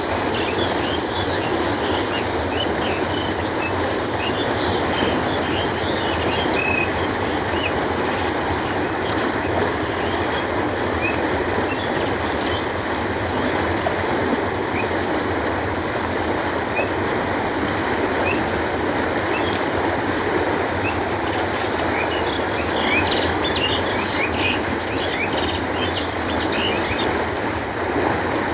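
Canal water flowing steadily, a constant rushing noise, with short bird chirps near the start and again near the end.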